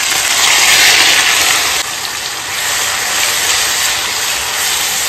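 Coarsely ground onion, ginger, garlic and green chilli paste dropped into hot oil in a stainless steel kadhai, sizzling loudly. The hiss is strongest for about the first two seconds, then eases to a steady sizzle as the paste is stirred with a spatula.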